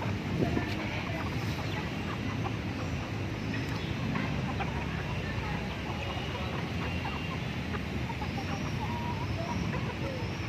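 Chickens clucking now and then over a steady background hum.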